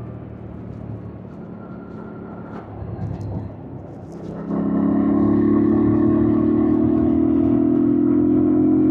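2025 Yamaha MT-07's parallel-twin engine heard from the bike, running quietly at first. About halfway through the throttle opens: the engine suddenly gets much louder and its pitch slowly rises as the bike accelerates.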